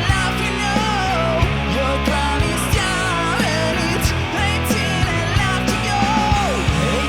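Hard rock song: a male voice singing a wavering melody over distorted electric guitar, bass and drums.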